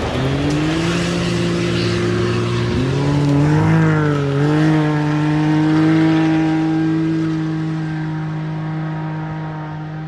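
Rally car engine pulling hard on a gravel stage, its pitch climbing over the first few seconds with a brief dip and recovery about four seconds in. It then holds a steady note while slowly fading away.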